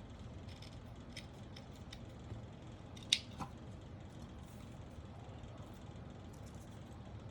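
Scissors snipping, trimming small pieces of material: a few faint snips, then one sharp, loud snip about three seconds in with a softer one just after.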